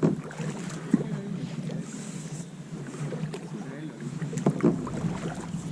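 Kayak paddling: paddles dipping and splashing in calm canal water, with a few sharp knocks about a second in and again twice near the end.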